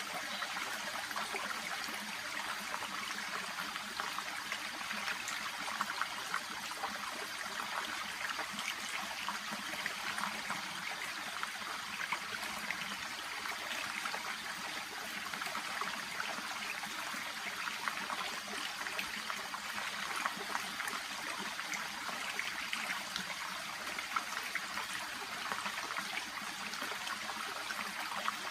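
Shallow brook babbling and trickling steadily, a continuous splashy burble of water running over stones and around water plants.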